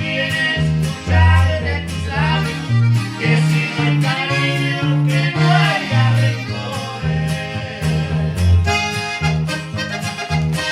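Norteño band playing live: accordion melody over a bass line that steps between notes, with a steady beat.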